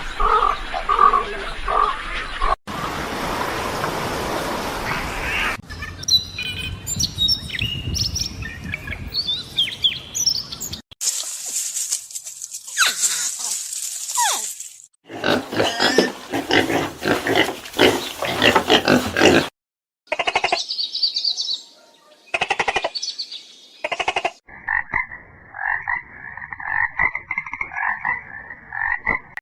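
A run of short clips of different animal calls, each cut off abruptly and replaced by the next, about seven in all. They range from noisy stretches and chirping to a rapid pulsing call and, near the end, a repeated call in two pitches.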